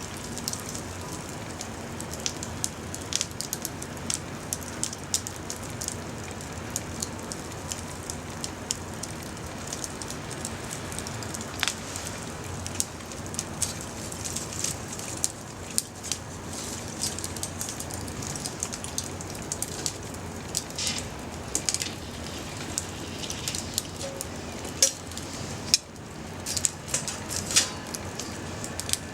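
Small wood fire of twigs and scrap wood burning, crackling with frequent sharp pops over a steady hiss; a few louder pops come near the end.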